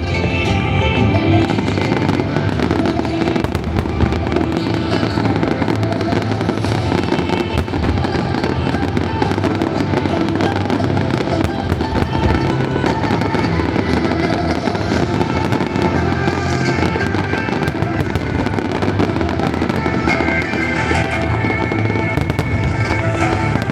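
Fireworks display: a continuous run of crackles and bangs from bursting shells, over music.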